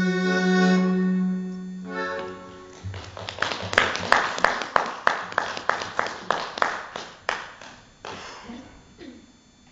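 An accordion holds the song's final chord, which dies away about two seconds in. Then comes hand-clapping in an even rhythm, about three claps a second, that fades out near the end.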